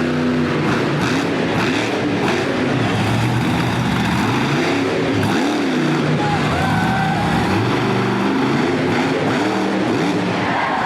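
Monster truck engine revving, its pitch swinging up and down several times.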